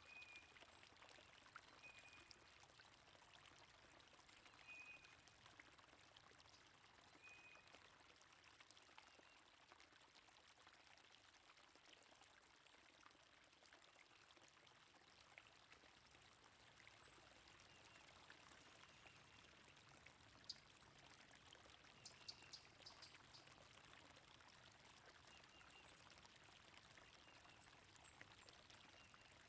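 Faint, steady flow of stream water, with short high bird chirps scattered over it, a small cluster about two-thirds of the way through.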